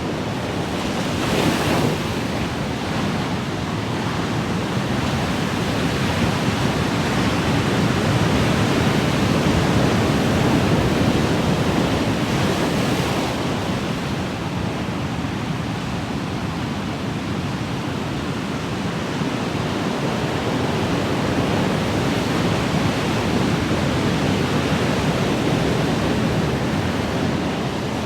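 Ocean waves washing on the shore in a continuous rush of surf, with a wave breaking more brightly about a second in and again about twelve seconds in.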